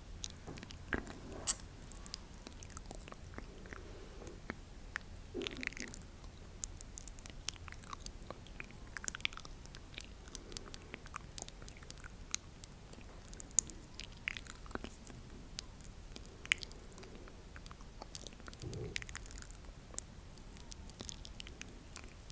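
Close-miked ASMR mouth sounds: soft wet clicks and smacks at irregular intervals, with a few fuller smacks.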